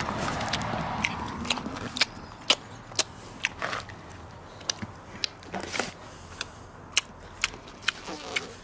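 A man chewing food close to the microphone, with sharp wet lip smacks and mouth clicks at irregular intervals, one or two a second.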